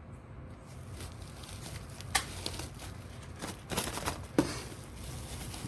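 Craft pieces being handled: a few sharp clicks and knocks over a low background hiss.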